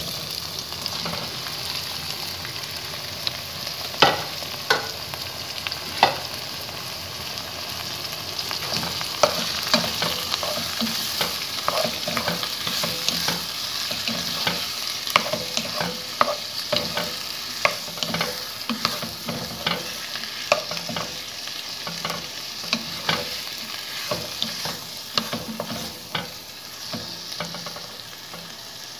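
Diced tomatoes and onions sizzling in oil in a coated frying pan while a wooden spatula stirs them, scraping and knocking against the pan at irregular intervals. The sizzle runs steadily under the spatula clicks, the sharpest knocks a few seconds in.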